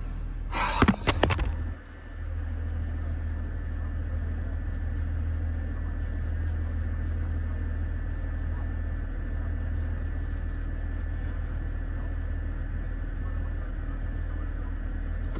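The 2007 Ford Territory's inline-six engine idling steadily, with a brief clatter of sharp knocks about a second in.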